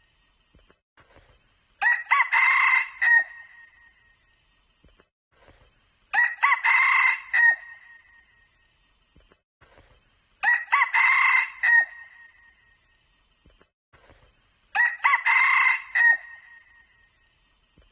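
Red junglefowl crowing: four short, clear crows, evenly spaced about four seconds apart, with near silence between them.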